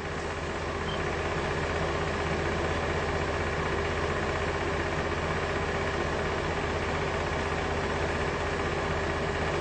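Steady low engine hum that holds even throughout, with no change in speed.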